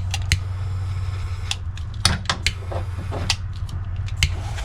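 Heat gun running with a steady low hum while shrinking heat-shrink tubing over soldered wire joints, with scattered light clicks from handling the wires.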